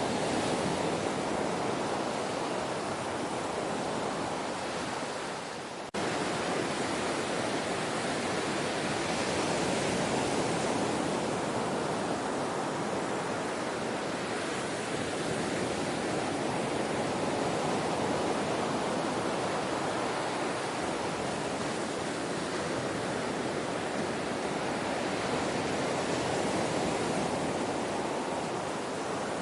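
Ocean waves washing in, a steady surf hiss that swells and eases slowly. About six seconds in it dips for a moment and comes straight back, like a splice in the recording.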